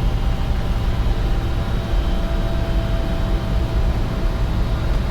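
Steady low rumble of airflow and engine noise in the cockpit of a Bombardier Challenger 605 climbing out just after takeoff.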